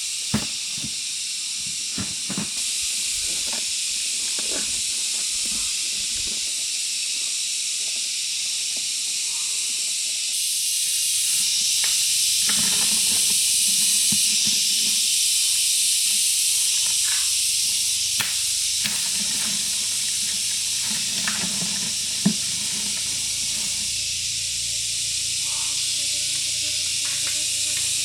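Steady high-pitched hiss, a little louder in the middle stretch, with scattered light knocks and clicks.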